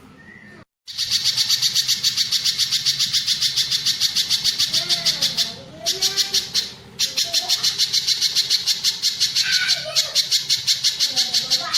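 Pijantung gunung (a spiderhunter) singing: a fast, even trill of high notes, about nine a second, starting about a second in, breaking off briefly twice near the middle and then resuming.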